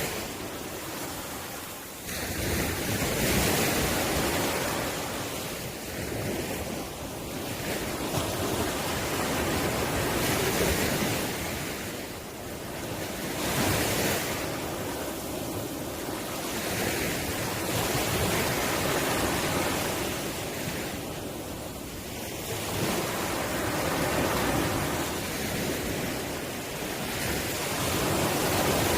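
Ocean waves breaking and washing up the shore, each surge swelling and fading every few seconds.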